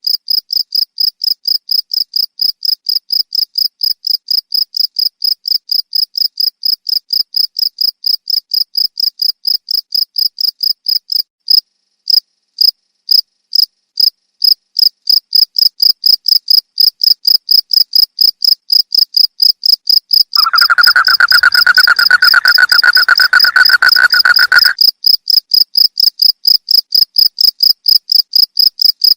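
Cricket chirping in a steady, even rhythm of about three high-pitched chirps a second, with a brief stutter near the middle. For about four seconds in the second half, a second, lower-pitched continuous trill joins in.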